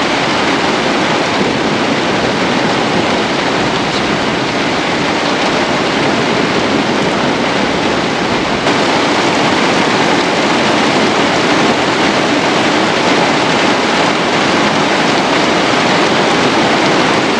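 Heavy rain pouring down on the car's roof and windows, heard from inside the cabin as a loud, steady hiss.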